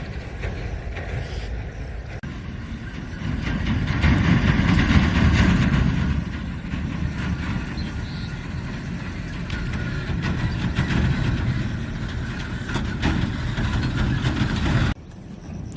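A loud, steady rumbling noise with no clear pitch, strongest at the low end. It swells and fades, and it cuts off abruptly near the end.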